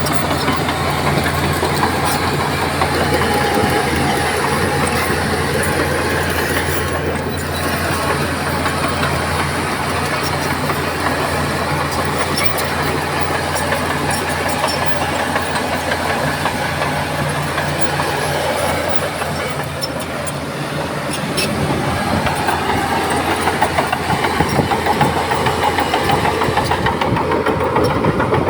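Heavy diesel engine of earthmoving machinery running steadily, with scattered metallic clanks. The engine note changes about three-quarters of the way through.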